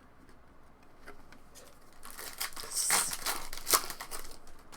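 Crinkling and tearing of a foil trading-card pack wrapper being opened, starting about two seconds in, with sharp crackles.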